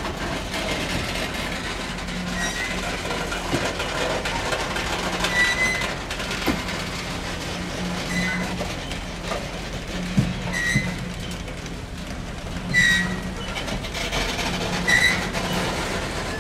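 Loaded gondola cars of a freight train rolling past, with a steady rumble of wheels on rail and scattered clicks. Short, high-pitched wheel squeals come about every two seconds.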